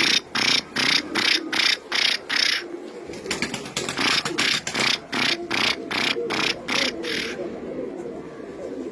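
Pigeons cooing together in a steady murmur, with a rhythmic swishing about four times a second that pauses briefly and stops before the end.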